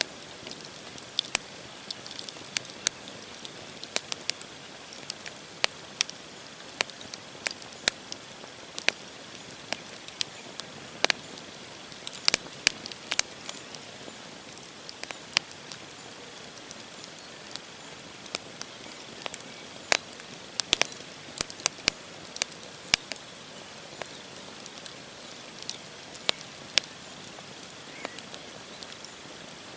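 Wood campfire burning: logs crackling with irregular sharp pops, several a second at times, over a steady hiss of the flames.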